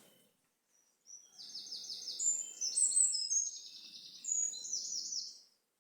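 A songbird singing a run of high, rapid, repeated phrases, starting about a second in and lasting about four seconds. The recordist thinks it is a blackbird.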